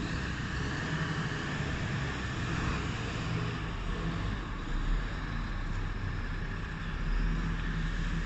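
Diesel engine of a Sinotruk Golden Prince tipper truck running steadily.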